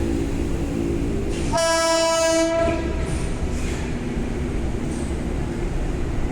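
Indian Railways locomotive horn sounding one blast lasting just over a second, over the steady low rumble of a train.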